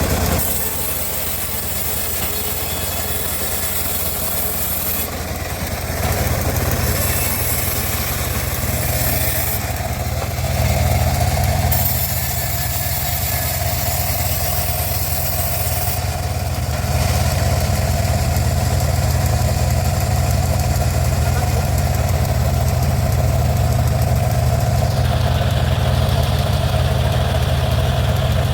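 Engine driving a homemade band sawmill, running steadily with a low hum. The sound steps up in loudness a few times, about six seconds in and again past the middle.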